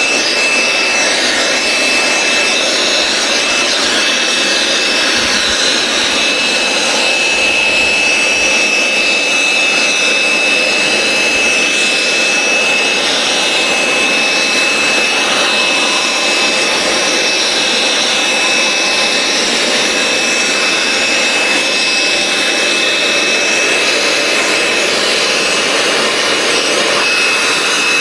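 Wet-and-dry vacuum running steadily with a high motor whine, sucking standing water out of the dug-out base.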